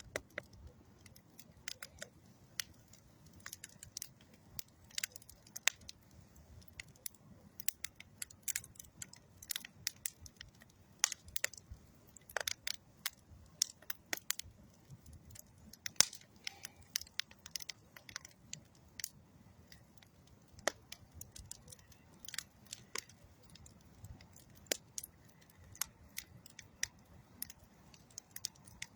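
Wood campfire of old railroad ties and dead tree wood burning, crackling and popping with irregular sharp snaps several times a second over a faint low rush.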